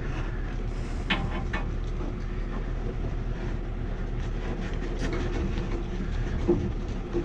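Steady low mechanical hum with a few light clicks and taps of pipe fittings being handled.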